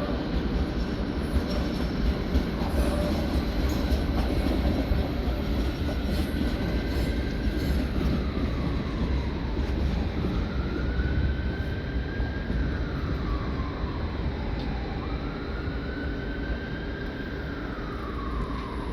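A train running past with a steady rumble. Over it, a high tone slides up and back down three times, roughly every four to five seconds, starting about a third of the way in.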